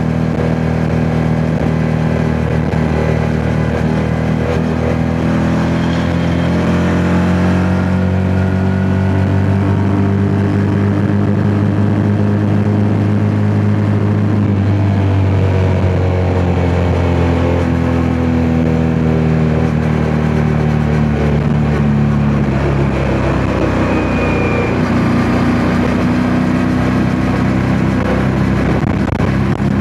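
Yamaha MT-07's parallel-twin engine running under way, its revs climbing slowly for about the first twelve seconds, then dropping back and holding steady. Wind rumble on the microphone grows in the second half.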